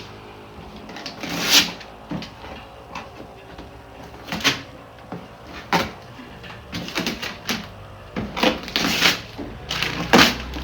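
Wrapping paper being torn and crumpled off a Christmas gift, in a string of irregular rips and rustles.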